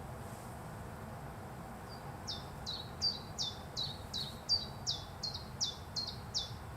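A bird calling: a run of about a dozen short, high notes, each sweeping downward, about three a second, beginning a couple of seconds in.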